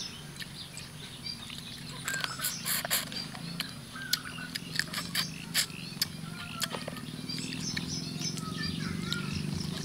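Close-up eating sounds: clicks and smacks of chewing papaya salad with noodles, thickest in the middle. Birds chirp now and then in the background over a steady low hum that grows louder near the end.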